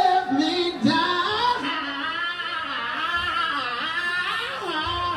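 Several voices singing together, their pitches sliding and overlapping.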